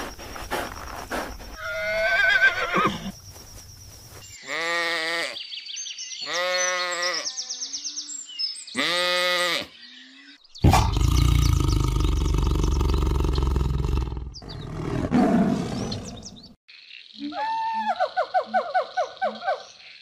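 A string of animal calls: a horse whinnying, then three bleats, then a long loud tiger roar about ten seconds in. Near the end comes a fast run of short repeated calls.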